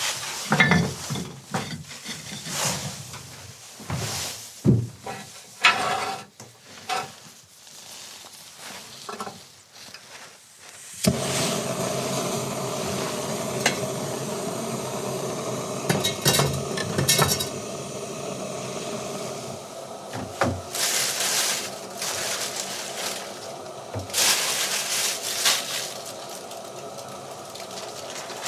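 Metal cookware and utensils clinking and knocking, then from about eleven seconds in a steady sizzle of food frying in a pan, with occasional clinks and scrapes over it.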